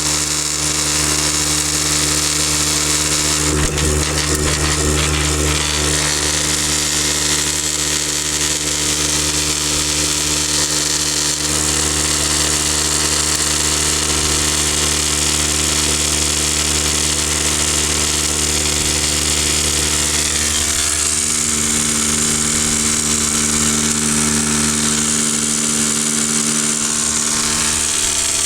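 Electric non-air drywasher running: its electric vibrator motor and shaking deck give a steady mechanical hum. The tone shifts slightly about three quarters of the way through.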